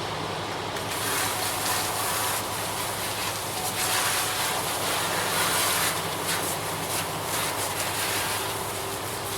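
A ready-mix concrete truck's engine runs steadily under an uneven hiss that swells and fades.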